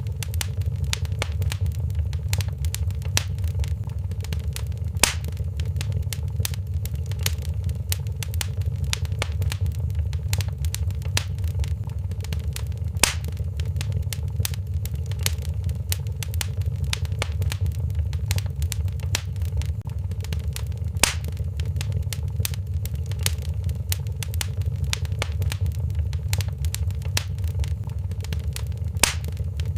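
Wood fire crackling in a fireplace: a steady low rumble of flame with a constant patter of small crackles and a sharper, louder pop about every eight seconds.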